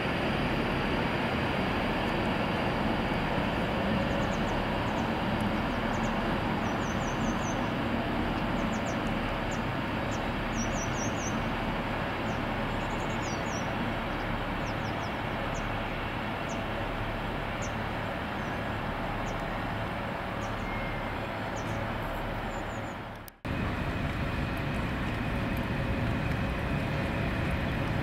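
Avanti West Coast Class 390 Pendolino electric train pulling out, a steady rumble and hiss with faint high squeaks above it. About 23 seconds in the sound cuts off abruptly and resumes as the steady train noise of a Colas Rail Class 56 diesel-hauled log train.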